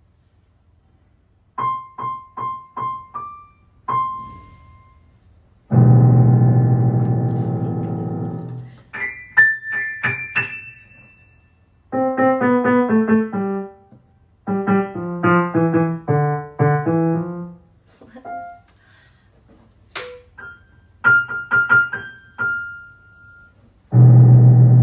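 Piano or electric piano music: short phrases of single struck notes and chords with pauses between them, and a loud sustained low chord about six seconds in and again near the end.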